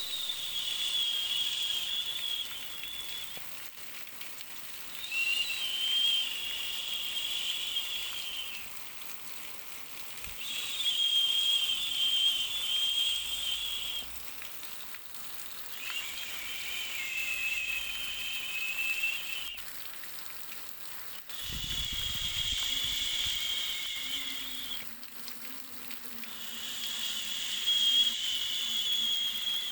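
Soothing-noise track of a hiss with a high whistle through it, swelling and fading in bouts of about three to four seconds with short dips between, six times over. A dull low thump comes about 22 seconds in.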